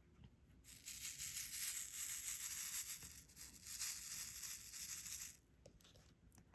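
Crinkling plastic: a small bag of diamond-painting drills being handled while changing to the next colour. It is a continuous, uneven rustle that starts about a second in and stops shortly before the end.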